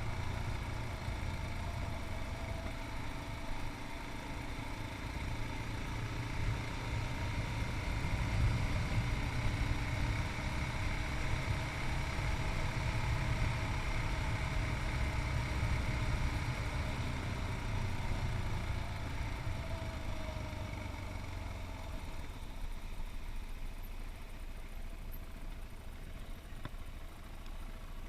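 Yamaha MT-03's 660 cc single-cylinder engine running as the motorcycle rides, heard through a chest-mounted camera. The sound grows gradually quieter over the last several seconds.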